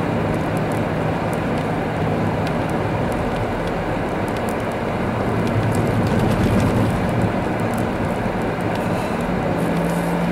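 Steady road noise inside a car's cabin driving slowly over a snow- and ice-covered road: tyre rumble and a low engine hum, with scattered light ticks, swelling slightly about six seconds in.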